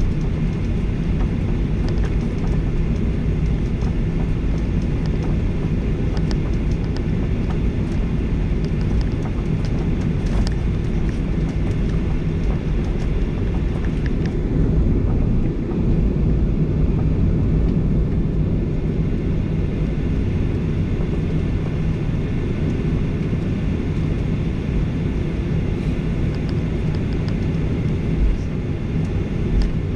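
Steady low rumble inside the cabin of a Boeing 737-800 from a rear window seat: the CFM56-7B engines and the airframe running at a constant level, with a few faint ticks and rattles.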